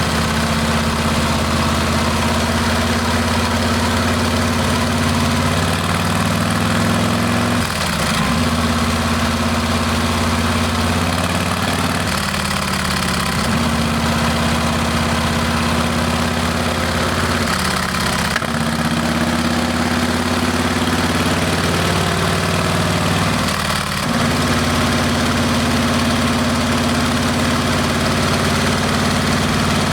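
Harley-Davidson Heritage Classic's Milwaukee-Eight V-twin running through a Rinehart exhaust, a steady loud note with brief dips and changes in pitch about every five or six seconds.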